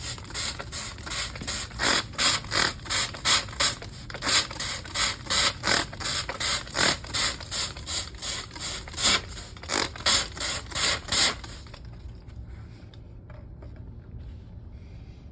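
A ratcheting hand tool worked back and forth in quick repeated strokes, about two to three rasping clicks a second, stopping near the end.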